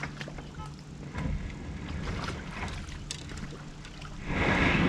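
Kayak being launched at the water's edge: scattered knocks and clunks of the hull and gear over a low rumble of wind and water, then a louder rushing noise about four seconds in.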